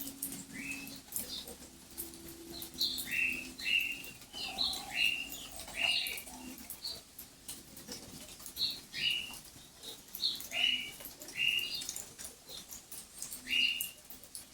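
A bird calling repeatedly in short, sharp chirps that each fall in pitch, coming irregularly about one or two a second, over a light, faint patter.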